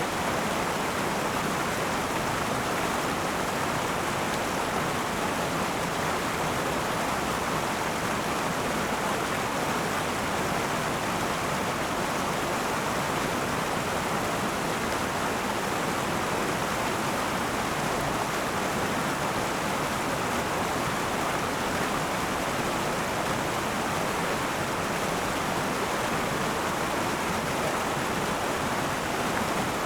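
River water running over rocks: a steady, even rush of flowing water with no breaks or changes.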